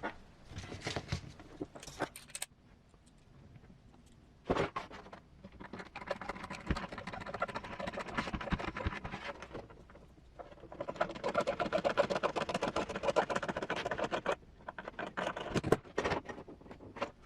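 Small plastic and metal parts of an RC driver figure handled and fitted together by hand: scattered clicks and scrapes, with two longer stretches of rapid rattling ticks.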